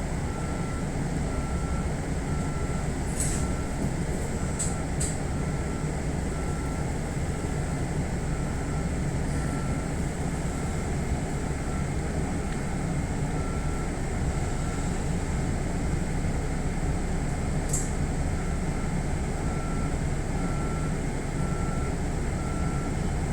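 Steady low hum and rumble inside a stopped electric commuter train car, with a faint tone pulsing on and off at an even pace and a few light clicks.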